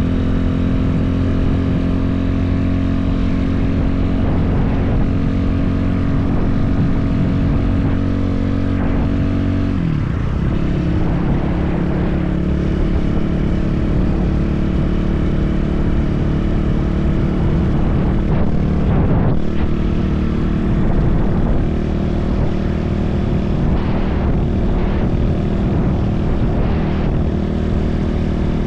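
BSE enduro motorcycle engine running while riding at a steady pace. About ten seconds in the engine note dips and settles at a different steady pitch, with short rises and falls in pitch later on.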